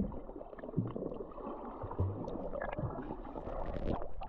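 Water gurgling and sloshing close to the microphone as a person swims in the sea, with irregular low thumps.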